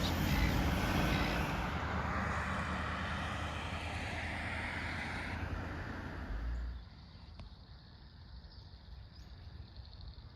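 A loud, steady rushing noise, heavy in the bass, that stops abruptly about seven seconds in and gives way to quieter outdoor background.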